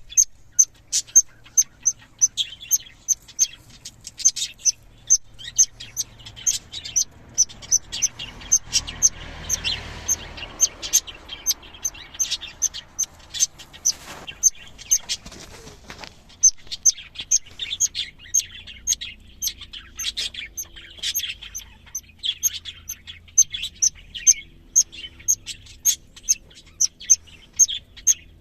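Budgerigars chirping: a continuous string of short, high, sharp chirps, a few each second, with a soft rustle for a moment about a third of the way in.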